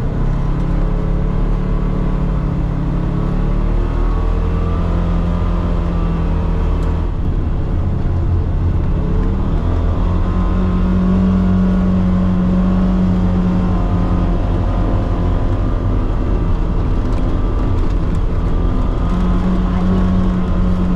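Engine of a Polaris Xpedition side-by-side running as it drives along a trail, its pitch stepping up and down a few times as speed changes.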